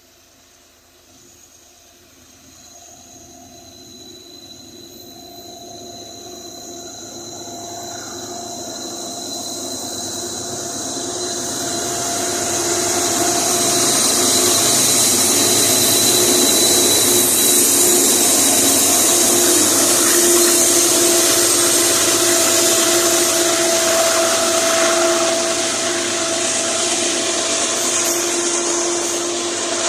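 Loaded iron-ore train led by GE ES44ACi and AC44i diesel-electric locomotives coming closer. The engines and the hiss of steel wheels on rail grow steadily louder over about the first thirteen seconds, then hold loud as the train passes, with a few steady tones throughout.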